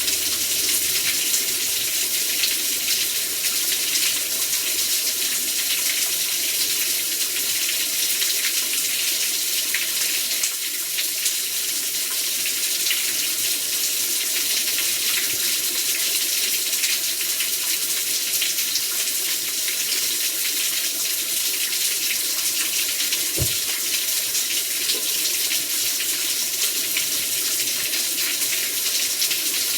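Heavy rain pouring down in a steady, dense hiss. A single brief low thump comes about 23 seconds in.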